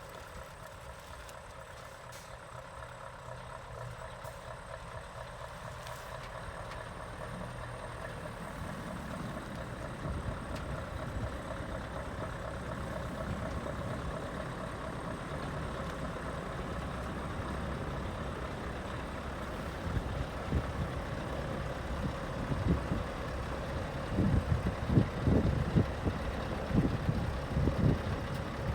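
Scania R580 hook-lift truck's V8 diesel engine idling steadily, growing louder over the first ten seconds or so, with irregular low thumps in the last third.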